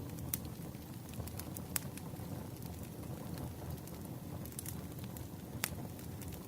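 Campfire of burning wood logs crackling: a steady low rumble of the flames with scattered sharp pops, the loudest about a second and three quarters in and near the end.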